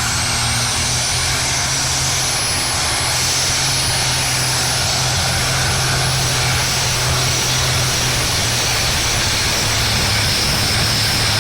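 A tractor-pulling tractor's engine running flat out and steady throughout, with a high-pitched whine that rises at the start and then holds.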